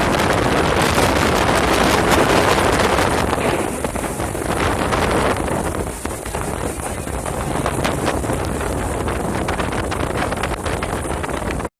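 Strong storm wind buffeting the microphone on a boat at sea, a loud rushing noise. It is strongest in the first few seconds, eases a little, and cuts off suddenly just before the end.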